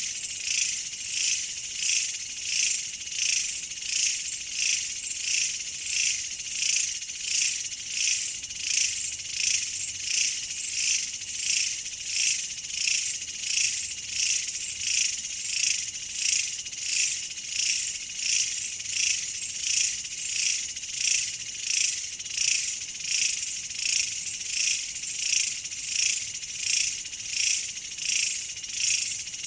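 Steady chorus of chirring insects, a high shrill sound that swells and fades in an even rhythm about once a second.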